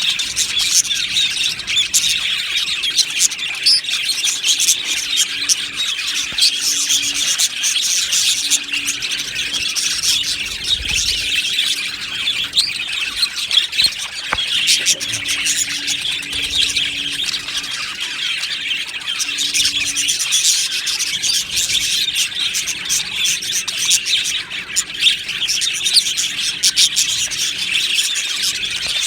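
A flock of budgerigars chattering and chirping continuously, many overlapping warbles and short tweets at once, as in a busy aviary.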